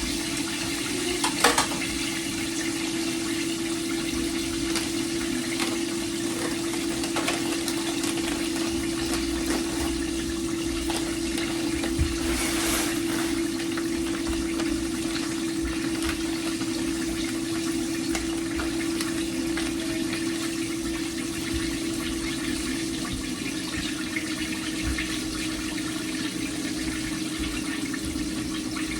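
Chicken deep-frying in hot oil: a steady sizzle over a constant low hum, with a light knock about a second and a half in.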